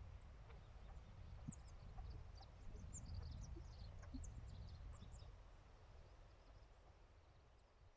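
Faint, scattered high chirps of small birds calling, over a low steady rumble of wind.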